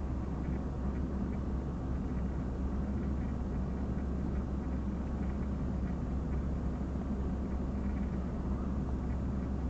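A steady low mechanical hum with a faint constant tone above it, unchanging throughout.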